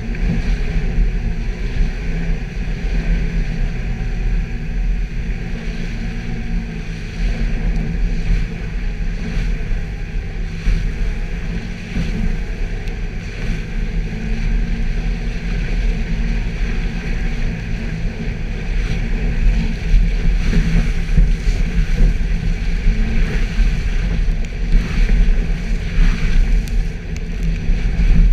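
Suzuki Jimny driving off-road: a steady low engine and drivetrain rumble, with scattered knocks and rattles that come more often in the second half.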